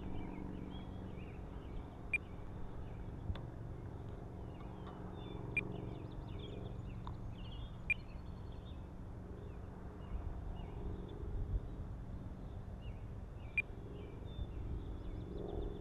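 Small birds chirping over and over in short calls, with a few sharper ticks, over a faint steady hum and low wind rumble.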